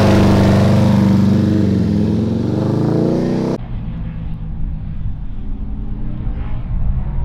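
Ducati V2 race bike's twin-cylinder engine running loud and close, its pitch dipping about two seconds in. A little over three seconds in it cuts off suddenly, replaced by fainter motorcycle engines lapping at a distance.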